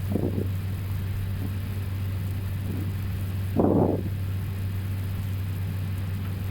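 Steady low hum inside an Airbus A320 cockpit during taxi, with the engines at idle and the APU running. A short muffled blip comes just after the start and a louder one about three and a half seconds in.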